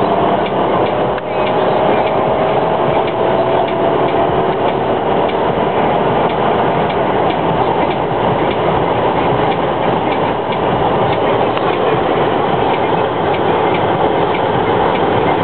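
Inside a 1990 Chevy Lumina Euro under full acceleration, its stock 3.1 MPFI V6 pulling at about 4,000 rpm. The sound dips briefly about a second in at an upshift, then the engine pulls on at lower revs with a slowly rising note under a steady rush of road and wind noise.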